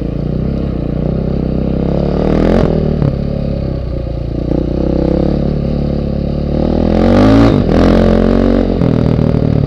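KTM 530 EXC enduro motorcycle's single-cylinder four-stroke engine running under way, revving up about two seconds in and again about seven seconds in, then dropping back.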